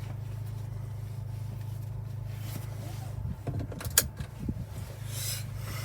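Hyundai i20N's 1.6-litre turbo engine idling steadily, pretty quiet, with one sharp click about four seconds in.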